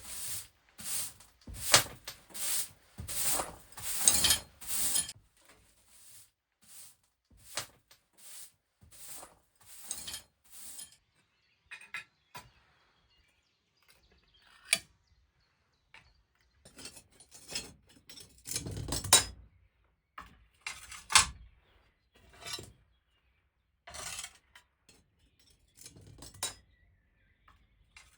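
Repeated short clinks and knocks of hard objects being handled: a quick run of them over the first five seconds, then scattered ones with pauses, with a couple of heavier knocks in the second half.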